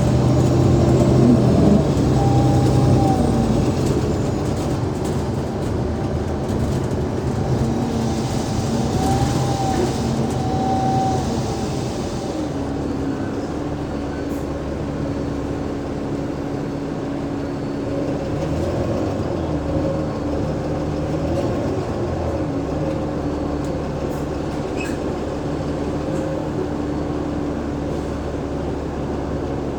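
Alexander Dennis Enviro500 MMC double-decker bus under way: the Cummins ISL8.9 straight-six diesel and the ZF Ecolife automatic gearbox run with a steady drone and whining tones that glide up and down with speed. It is louder over the first few seconds, then settles to a steadier whine after about twelve seconds.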